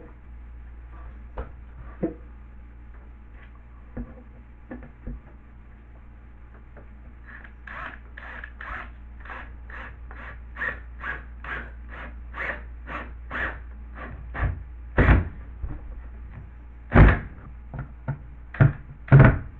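A hand tool scraping on drywall in rhythmic strokes, about three a second, beginning about a third of the way in. A few heavy thumps follow near the end.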